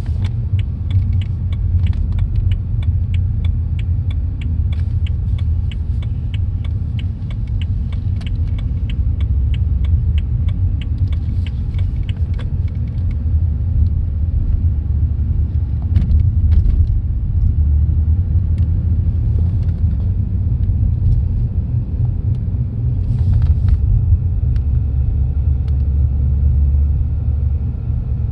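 Low rotational rumble in the cabin of a 2010 BMW 328i rolling at about 15 to 20 mph, swelling and easing several times, loudest at the driver's floorboard. It is the noise whose cause the owner cannot find: tires, driveshaft, carrier bearing and U-joints have been checked good. A rapid, even ticking runs through the first dozen seconds.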